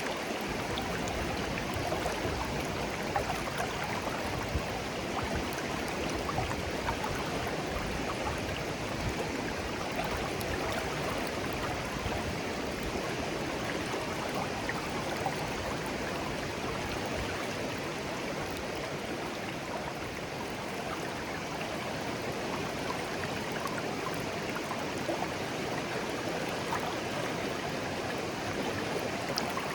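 Shallow stream flowing steadily, a continuous babbling rush of water with small gurgles and splashes.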